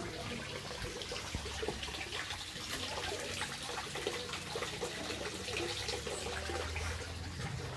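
Water trickling and splashing with many small drips, over a steady low hum.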